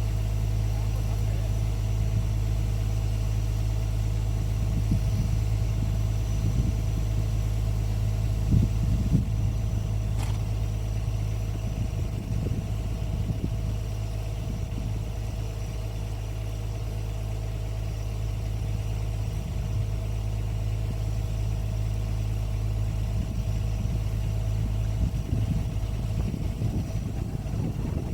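Excavator's diesel engine running steadily, with scattered low knocks and clunks, mostly in the middle and near the end.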